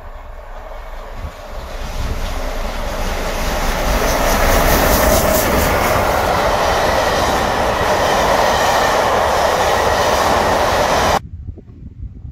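Passenger train of vintage coaches running past at speed behind a steam locomotive: a rushing clatter of wheels on the rails that builds over the first few seconds as the train nears, then holds steady. It cuts off abruptly about eleven seconds in, leaving only faint outdoor sounds.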